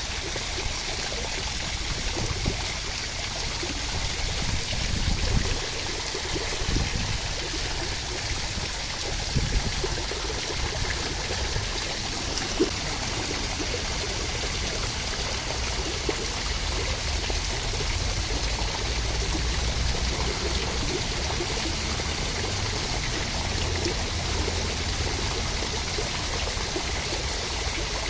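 Steady rain, an even rush of water with a low rumble underneath and a few brief louder drops or splashes in the first half.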